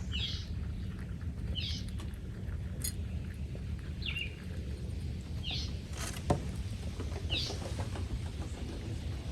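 Five short, sharp, downward-sweeping animal chirps, about one every second and a half, with a single sharp tap a little past the middle, over a steady low rumble.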